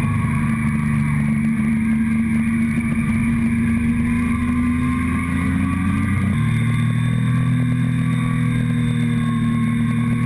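Motorcycle engine running steadily under way, heard from the fuel tank, with a change in the engine note about six seconds in.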